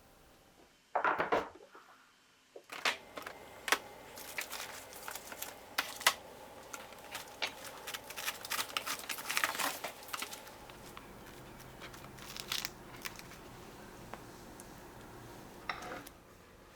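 Plastic food packaging crinkling and rustling as it is handled and opened, with irregular sharp clicks and taps; a short loud rustle about a second in, the busiest crinkling in the middle, and a few last rustles near the end.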